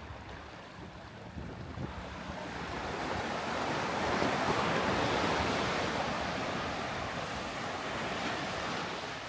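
Sea surf washing onto the beach, one wave swelling about three seconds in, loudest midway, then easing off, with some wind rumble on the microphone.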